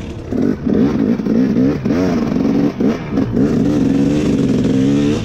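Dirt bike engine revving up and down in short throttle bursts, its pitch rising and falling several times, then holding steadier in the last couple of seconds.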